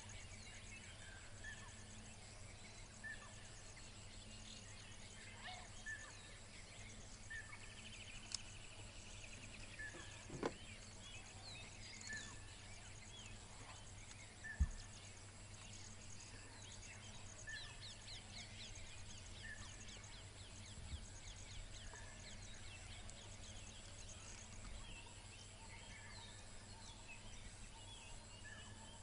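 Quiet outdoor ambience in undergrowth: a bird repeats a short, high call every second or two, with other faint bird chirps, a few soft clicks and a steady low hum underneath.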